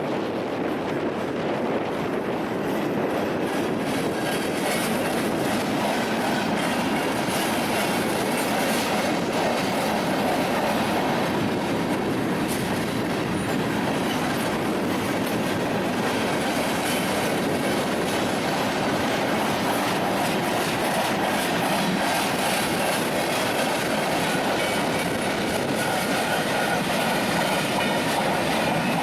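Union Pacific freight train cars rolling steadily past, the wheels clattering over the rails with a continuous clickety-clack.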